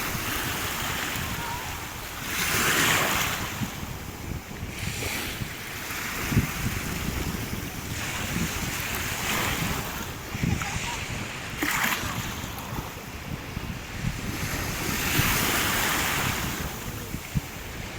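Small sea waves breaking and washing up the shore, a rushing hiss that swells and fades every few seconds. Wind buffets the microphone with a low rumble underneath.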